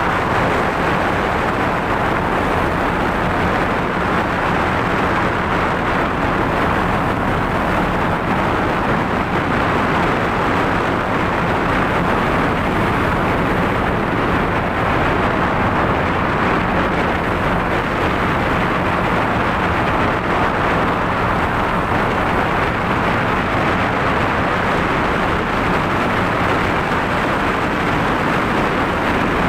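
Fishing boat engine running steadily under way, a constant low drone mixed into a steady rush of noise with no change in speed.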